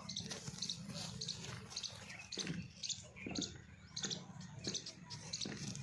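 A small bird chirping over and over in short high notes, about two to three a second, over a steady low hum with a few faint knocks.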